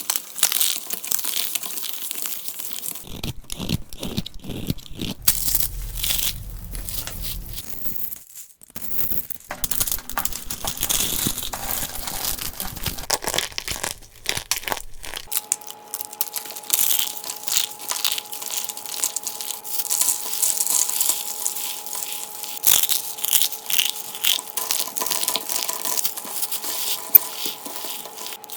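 Dry soap being crushed and crumbled by hand, a dense run of crackling and crunching. A faint steady hum joins in about halfway through.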